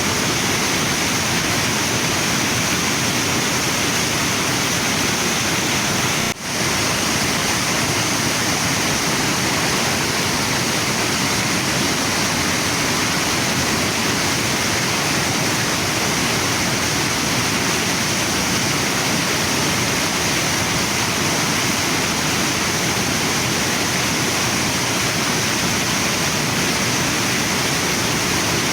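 Waterfall and river water rushing in a steady, dense wash, with a brief dropout about six seconds in.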